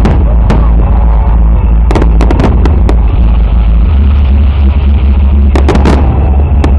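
Fireworks salute: aerial shells bursting with sharp cracks, a quick cluster about two seconds in and another near the end, over a constant heavy low rumble of booms.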